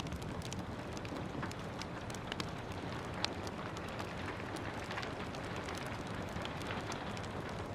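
Steady rain hiss with a wood fire crackling over it: scattered small sharp pops, one louder pop a little past three seconds in.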